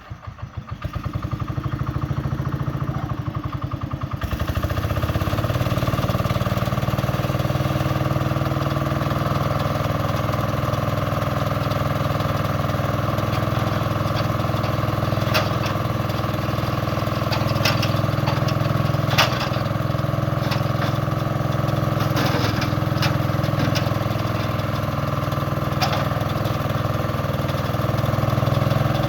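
Oakes Rounder L-500 skid steer's engine cranking and catching over the first few seconds, then idling steadily, with a few sharp clicks or knocks later on.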